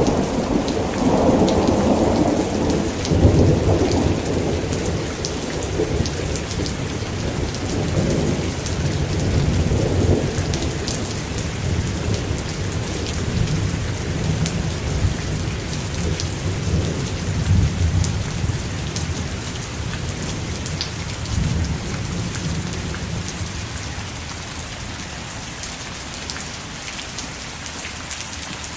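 Steady rain with a long roll of thunder, rumbling heavily over the first seconds and slowly dying away toward the end.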